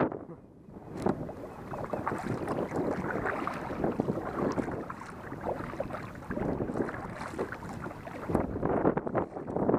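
Kayak paddling: water splashing and sloshing with the paddle strokes, irregular swells of noise with a few sharp splashes, and wind buffeting the microphone.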